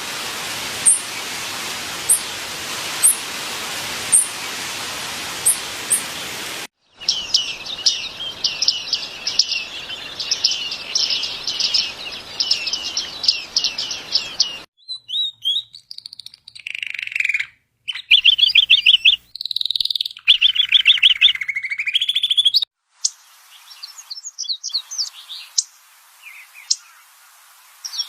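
Songbirds calling and singing in a run of spliced-together recordings that cut abruptly from one to the next: first a few short, high chirps about a second apart over a steady hiss, then a long series of rapid repeated chirps, then varied trills and calls with brief silent gaps between clips.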